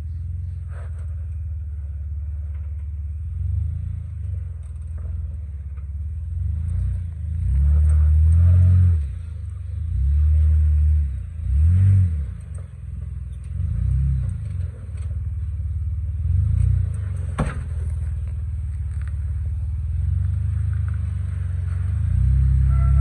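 Jeep Wrangler engine at low revs, rising and falling in repeated short throttle blips as it crawls over boulders. A single sharp knock comes about three-quarters of the way through.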